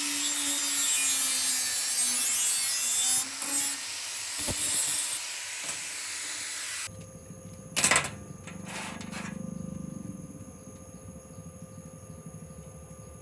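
A small handheld power tool runs, drilling or grinding, with a loud hissing whir over a steady motor hum, then cuts off abruptly about seven seconds in. Afterwards it is much quieter, with one sharp click.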